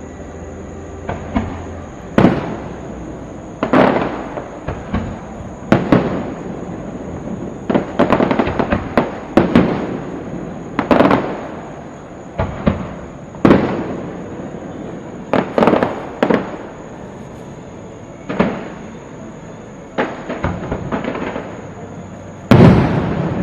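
Aerial fireworks shells bursting in a test shoot: a loud bang every second or two, each followed by a fading rumbling echo, with a last, loudest burst near the end.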